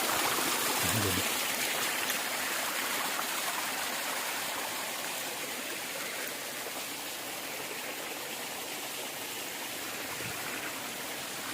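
Water of a small waterfall and stream running over rock slabs, a steady rushing hiss. It eases a little over the first few seconds, then holds steady.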